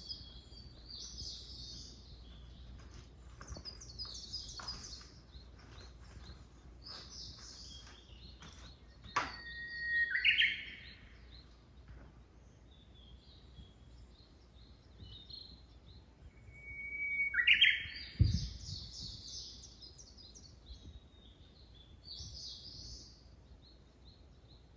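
Wild songbirds singing: repeated high twittering phrases, and twice, about 10 and 17 seconds in, a held whistle that breaks into a quick flourish. A short low thud sounds just after the second whistle.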